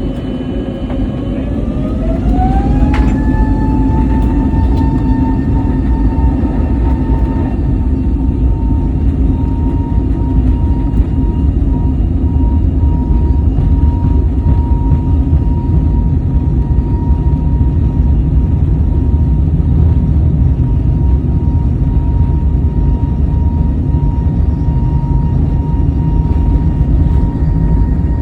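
Airliner jet engines spooling up to takeoff thrust, heard from inside the cabin. The whine climbs in pitch over the first few seconds, then holds steady over a heavy rumble as the aircraft rolls down the runway.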